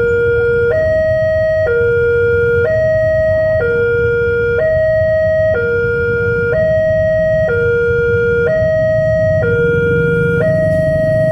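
Railway level-crossing warning alarm sounding: an electronic two-tone signal switching between a lower and a higher note about once a second, the warning that a train is approaching and the barriers are down. A low, steady engine rumble runs underneath.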